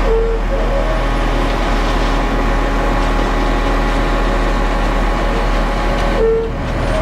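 Concrete mixer truck running with its revolving drum rattling, a rattle that means the drum is almost out of concrete. A short tone sounds near the start and again near the end.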